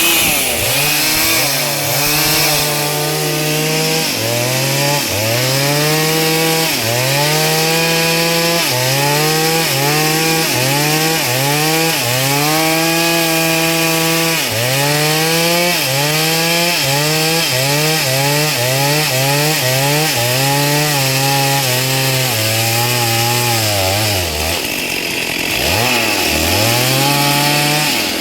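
Two-stroke chainsaw cutting into a hard log at full throttle, its engine pitch sagging each time the chain bites and climbing back, over and over about once a second. Near the end it bogs down deep under the load, nearly stalling, then picks back up.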